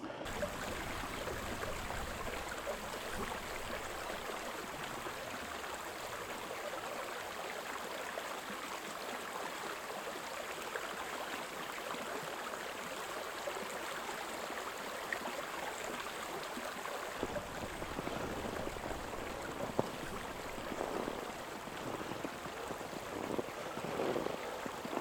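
Creek water flowing, a steady rushing hiss.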